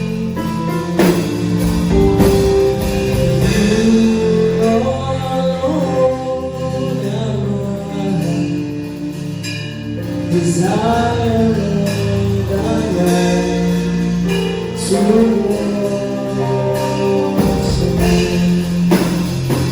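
Slow gospel worship music: a voice singing drawn-out lines over sustained instrumental accompaniment.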